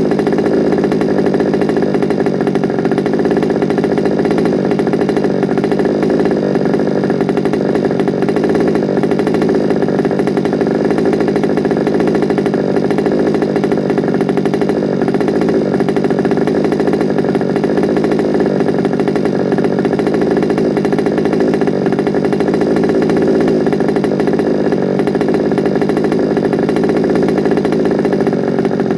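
Small two-stroke petrol engine of a large-scale FG Sportsline RC car idling steadily on its first run, with no revving.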